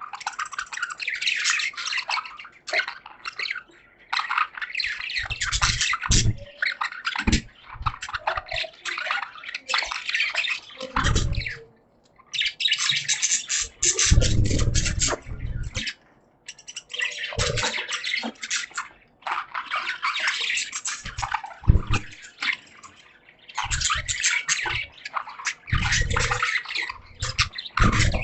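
A group of caged budgies chattering and warbling in rapid bursts of chirps with short breaks. Low thumps come now and then among the chirps.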